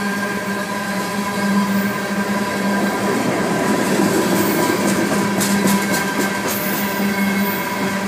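Loaded coal hopper cars of a freight train rolling past, a steady rumble of steel wheels on rail with a steady tone running through it. A few sharp clicks come a little past the middle.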